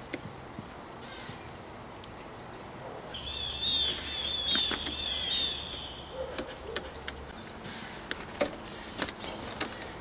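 A songbird calling a quick run of repeated chirping notes for about three seconds, starting about three seconds in, followed by scattered sharp clicks and taps.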